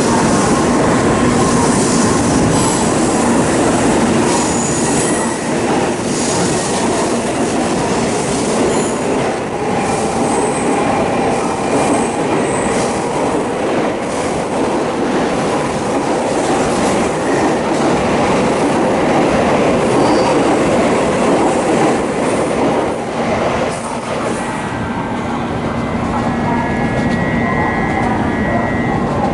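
Shinkansen Nozomi train pulling out of the station, a steady running rumble with short high-pitched wheel squeals scattered through the first half.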